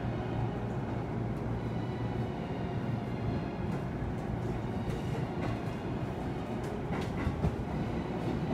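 Running noise heard from inside a moving train: a steady rumble and hum, with a scatter of sharp wheel clicks over rail joints in the second half.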